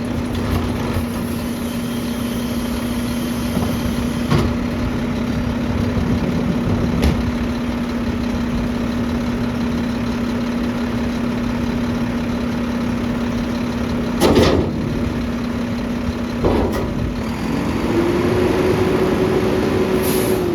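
Mack LR garbage truck with a McNeilus body idling with a steady hum, with a few sharp clanks, the loudest about two-thirds of the way through. Near the end the engine speeds up to a higher steady pitch, as it does when the packer hydraulics are driven for compaction.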